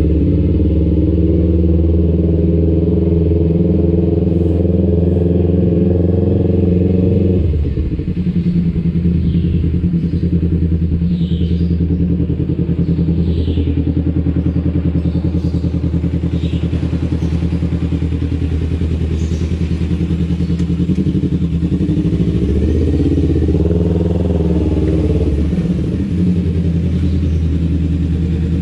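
Kawasaki Ninja 250 Fi parallel-twin engine running through an aftermarket R9 H2 exhaust, holding a steady note. It drops off about seven seconds in and rises in pitch again a little after twenty seconds.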